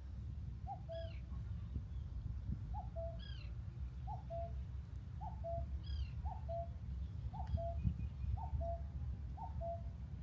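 Bird calls: a low two-note call, a short rising note then a lower flat one, repeated about once a second. A higher arching call joins three times.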